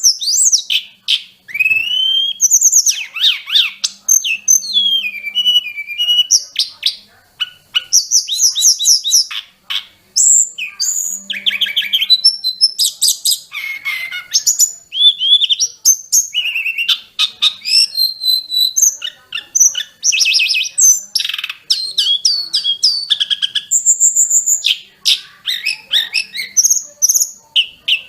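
A tledekan gunung (sulingan gunung) songbird singing a fast, varied, unbroken song of whistled notes, rising and falling glides and rapid trills.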